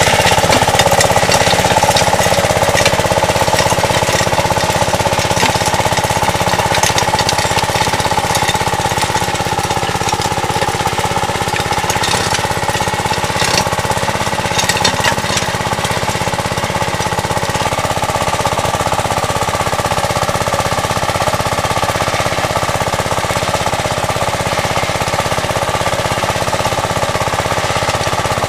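Two-wheel tractor engine running steadily under load, with a rapid mechanical clatter from the soil-working implement and scattered sharp clicks.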